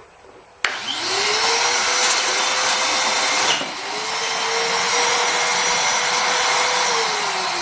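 DEWALT DXV06P 6-gallon wet/dry shop vac switched on about half a second in, its motor whine rising as it spins up and then running with a loud rush of air. About three and a half seconds in there is a click and a brief dip before it steadies again. Near the end the whine starts to fall as the motor winds down.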